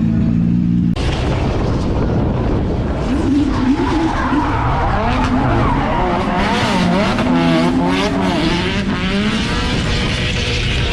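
A steady engine drone cuts off about a second in, then a drift car's engine revs up and down with its tyres skidding.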